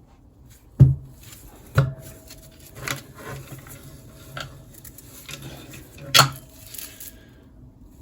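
Metal engine parts knocking and clinking as they are handled and set down during an engine teardown: three sharp knocks, about one, two and six seconds in, with lighter clinks between.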